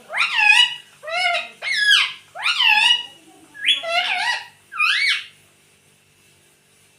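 Pet parrot calling: a run of six short, loud calls, each rising then falling in pitch, about half a second apart, stopping about five seconds in.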